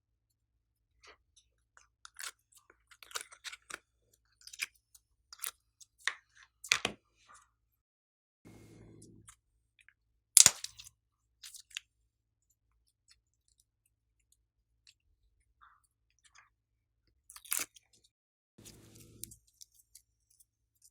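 Hand-worked glossy slime making sticky crackling clicks and pops, with two sharper, louder snaps and two short low buzzes.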